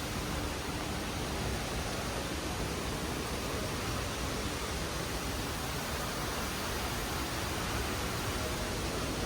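Steady rushing cabin noise of an Airbus A320 airliner, even and unbroken.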